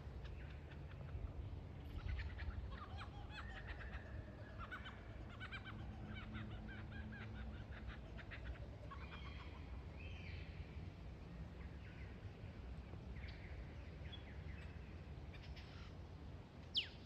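Lyrebird singing a varied run of calls: rapid clicking trills, short whistles and chattering notes, with a sharp falling whistle near the end, over a low steady rumble.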